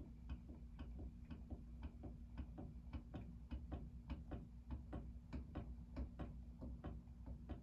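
Aircool 36-inch industrial ceiling fan running: a steady low motor hum with a light, even tick about three times a second.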